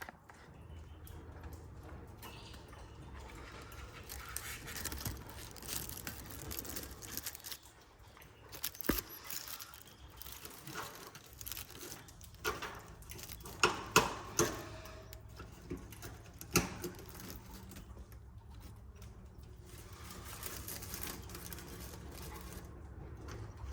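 Canaries moving about their cage and nest: rustling and scraping, with scattered sharp clicks and knocks, the loudest few near the middle.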